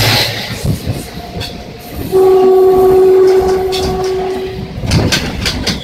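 Train passing close alongside with rushing noise, and one steady single-note locomotive horn blast of about two and a half seconds starting about two seconds in. A few sharp wheel clicks over rail joints follow near the end.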